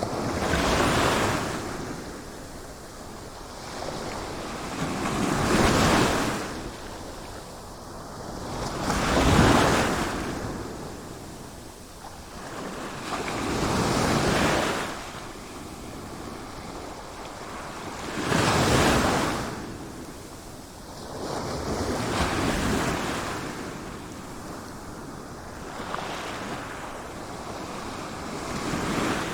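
Sea waves breaking and washing on a shore in slow surges, each swell rising and falling away about every four seconds, with some wind noise on the microphone.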